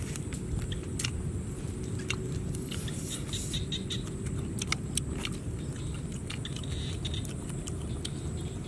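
Crunching and chewing on fried snake meat and small bones, heard as scattered short sharp clicks over a steady low rumble.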